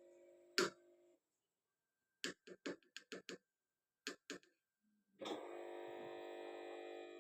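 Washing machine clicking and humming: a quick run of about seven sharp clicks between two and three and a half seconds in, two more near four seconds, then a click and a steady hum of several tones from about five seconds in.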